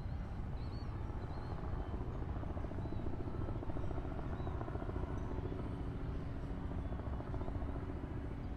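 Helicopter flying by: a steady low rumble with a fast, even rotor beat.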